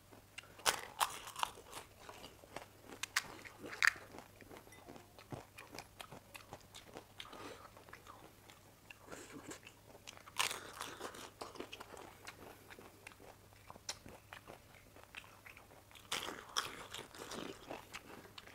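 Close-miked crunching and chewing of crisp panipuri (golgappa) shells as they are bitten, in bursts of crackly crunches about a second in, near four seconds, around ten seconds and around sixteen seconds, with softer chewing between.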